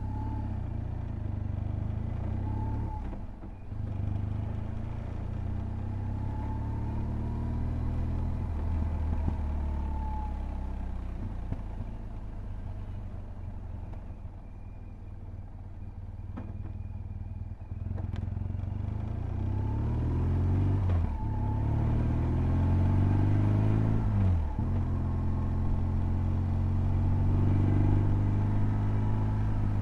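BMW R1200GS's boxer twin under way: a gear change about three seconds in, the engine easing off through the middle, then accelerating hard with two quick upshifts in the last third, getting louder.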